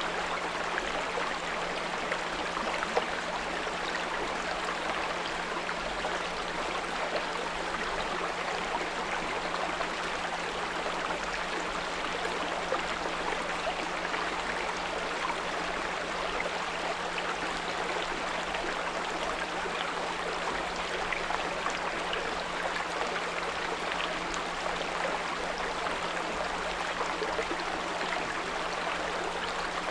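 Small brook running and babbling steadily, with a steady low 174 Hz pure tone underneath.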